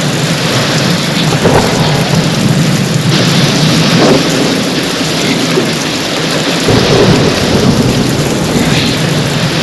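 Heavy rain falling steadily in a thunderstorm, with thunder rumbling low; the deep rumble swells about two-thirds of the way through.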